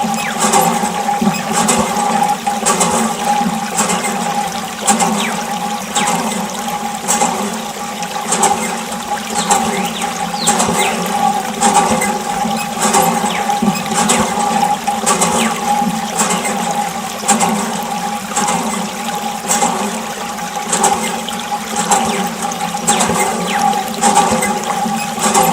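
Water spraying and splashing from a small DC-motor mini water pump, the motor's steady hum running underneath, with faint regular clicks about once a second.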